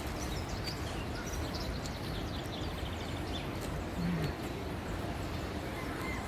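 Steady outdoor background noise with a few faint, high bird chirps in the first half, and a brief low hum about four seconds in.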